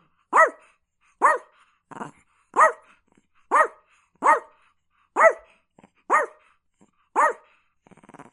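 Chihuahua barking repeatedly: short, sharp barks about once a second, each bark's pitch rising and falling.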